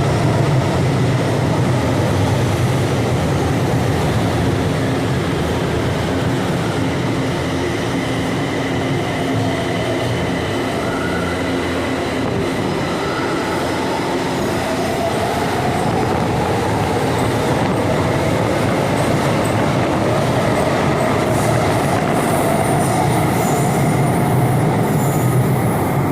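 São Paulo Metro train running on the track: a steady loud rumble with faint whining tones that slowly rise and fall, most noticeable in the second half.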